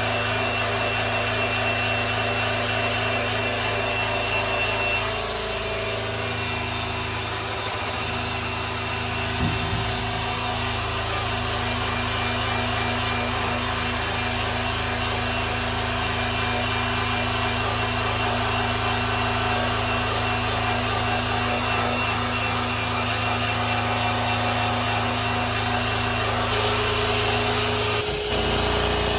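Electric polisher running steadily as it buffs the finish of a grand piano's case, its motor hum over an even rubbing hiss, with the tone shifting near the end.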